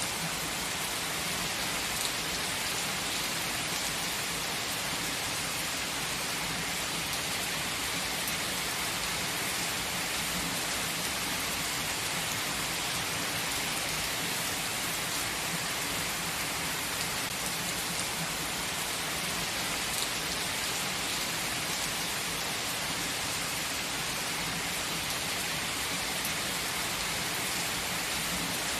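Steady rain falling on surfaces, an even hiss with a few sharper drop hits now and then.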